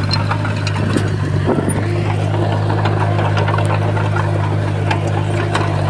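Komatsu bulldozer's diesel engine running steadily, with scattered sharp clicks and clanks.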